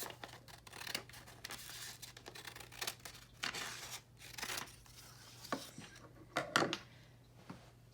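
Scissors cutting a sheet of paper in a run of irregular snips, trimming the extra strip off to leave a square, with the paper rustling; the loudest cuts come near the end.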